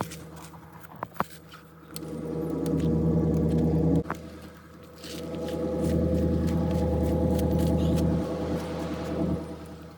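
Forklift engine running, growing much louder twice as it is revved: once for about two seconds, stopping abruptly, and again for about four seconds. A few sharp clicks come about a second in.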